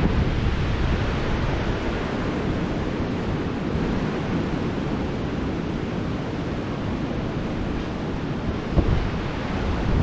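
Waves breaking on a beach under strong wind that buffets the microphone with a heavy low rumble. A short louder bump about nine seconds in.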